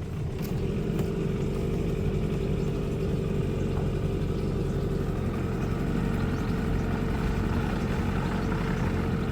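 Small cruiser boat's engine running steadily at low speed.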